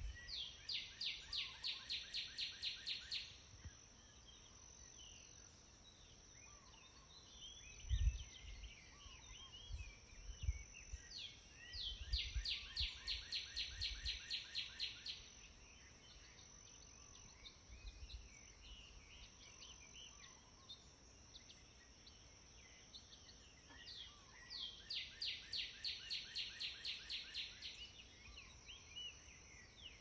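Songbirds singing. One bird repeats a trilled song of rapid, even notes lasting about three seconds, three times at gaps of roughly ten seconds, over scattered short chirps from other birds and a steady high whine. A couple of low thumps fall between the first and second songs.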